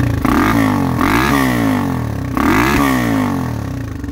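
1986 Honda XR250R's single-cylinder four-stroke engine, warmed up after a cold start, revved twice from idle: the pitch climbs and falls back each time, the first rev peaking about a second in and the second shorter one near three seconds, then drops back to a pulsing idle.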